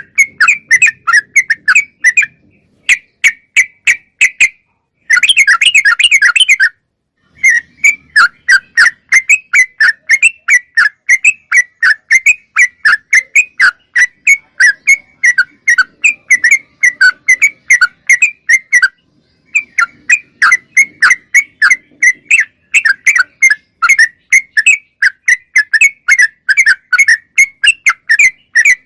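Yellow-vented bulbul (trucukan) singing in long runs of rapid, short, clear notes, broken by a few brief pauses.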